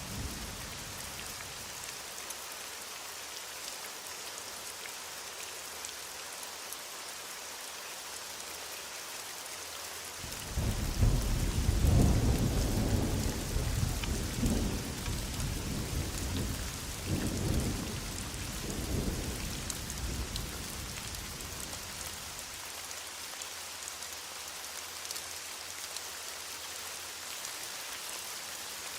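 Heavy rain falling steadily. About ten seconds in, a roll of thunder breaks in suddenly and rumbles on in several swells for about ten seconds before fading back under the rain.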